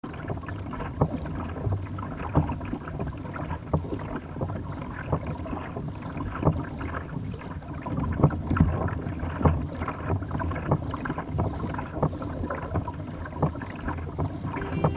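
Water slapping and lapping against a kayak hull, with sharp irregular knocks about every second over a steady low rumble of water and wind.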